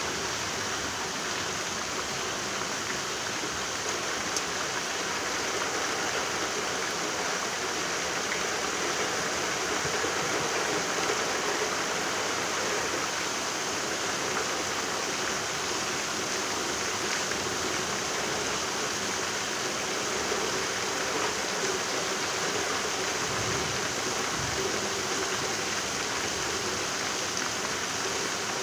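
Rain falling steadily, an even hiss of water that does not change.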